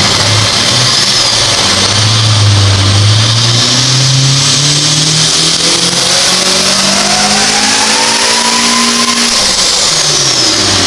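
2014 Honda Civic Si's supercharged 2.4-litre four-cylinder making a full-throttle pull on a dyno: the engine note climbs steadily for about nine seconds with a rising supercharger whine over it, then falls away near the end as the throttle closes.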